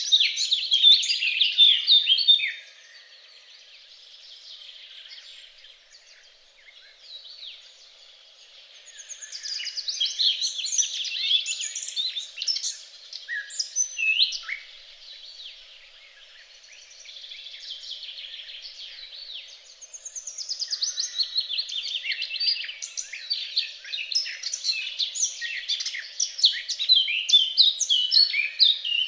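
Songbirds singing: rapid, high chirping and warbling phrases that swell loud three times, with quieter twittering in between.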